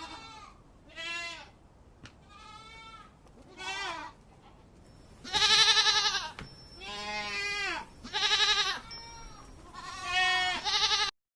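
Goats bleating: about eight quavering calls one after another, the loudest about halfway through.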